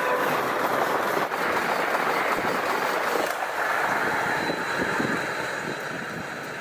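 Express passenger train passing at speed: a steady rushing noise of coaches and wheels on the rails that fades away near the end.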